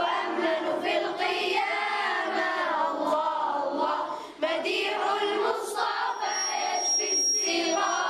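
A group of young voices singing a madih, an Arabic devotional song praising the Prophet Muhammad, together in chorus, with a brief break about four seconds in. A thin, steady high tone sounds for about a second and a half near the end.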